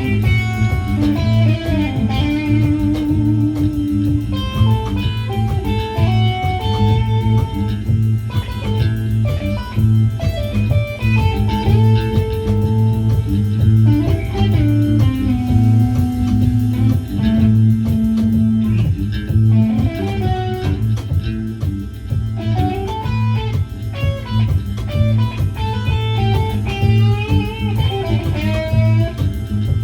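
Band rehearsing an instrumental passage: electric guitar plays melodic lead lines with bent, wavering notes over a steady low accompaniment.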